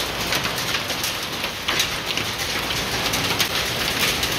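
Heavy rain mixed with hail falling, a dense steady hiss with many sharp ticks of separate impacts.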